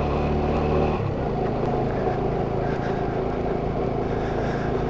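Motorcycle engine running steadily under way, its note shifting slightly about a second in.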